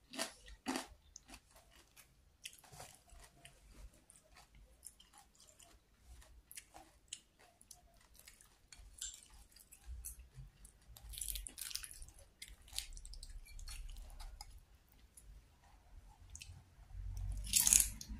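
Close-up chewing, biting and mouth sounds of someone eating batagor, fried fish dumplings and tofu in peanut sauce, with scattered small clicks of a metal spoon against the plate. A louder bite or slurp comes near the end.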